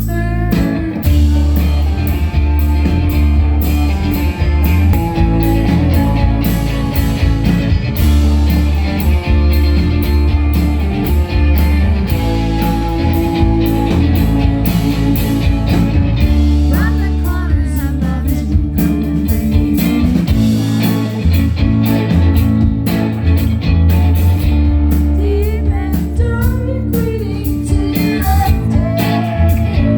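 A live band playing loudly: electric guitar over heavy bass and a steady drum beat, with a woman singing in stretches.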